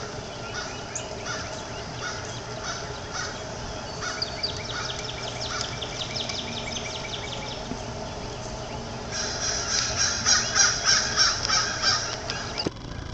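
Birds chirping with quick, high repeated notes, then a run of loud, harsh bird calls about three or four a second over the last few seconds.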